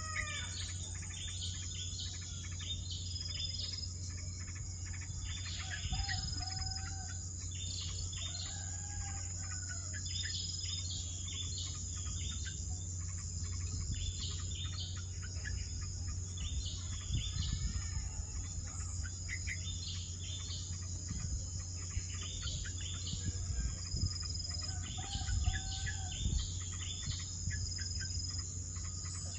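Birds chirping repeatedly in short calls over a steady, high-pitched insect drone, with a few lower whistled notes now and then.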